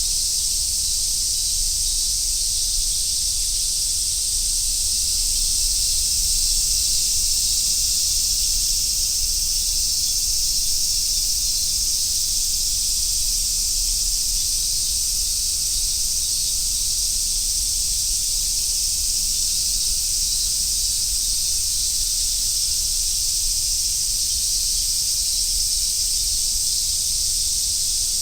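Chorus of Japanese summer cicadas, including large brown cicadas (aburazemi), making a continuous high sizzling drone that swells slightly and eases again, with a faint low rumble underneath.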